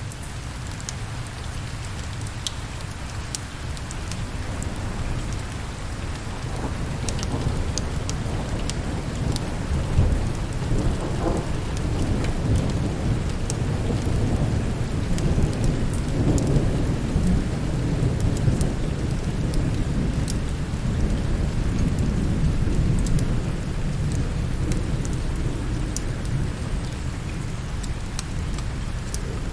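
Steady rain with a long, low roll of thunder that builds over the first several seconds, rumbles strongest in the middle and slowly eases off. Scattered sharp little clicks come through on top of the rain.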